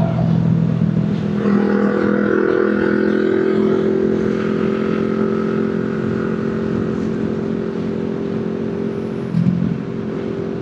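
Motorcycle engine running at a fairly steady speed while riding, its pitch holding nearly constant.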